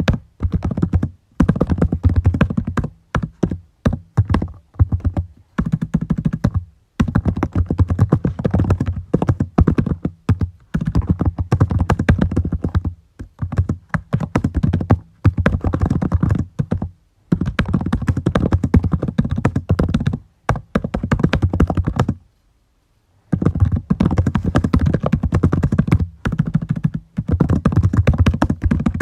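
Fast typing on a computer keyboard, in bursts of rapid key clicks broken by short pauses, with one longer stop of about a second near the end.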